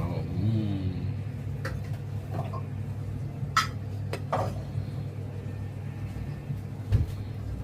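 Scattered clinks and taps of a knife and dishes, with a low thump near the end, over a steady low hum.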